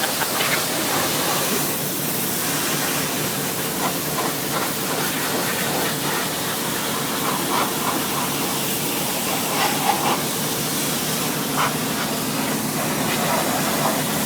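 Pressure washer spraying the lorry with a steady, loud hissing jet of water.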